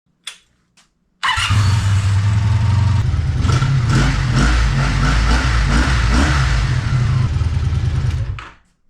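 Honda V65 Magna VF1100C's V4 engine running loud, coming in abruptly about a second in after two faint clicks. Its low note shifts about three seconds in, and it dies away near the end.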